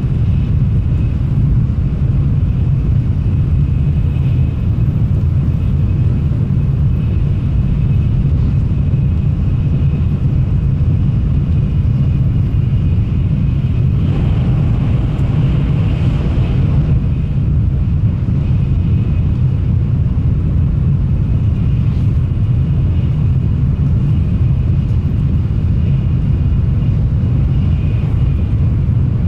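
Shinkansen train running, heard from inside the passenger cabin: a steady low rumble with a faint high whine. A hiss rises for a few seconds about halfway through.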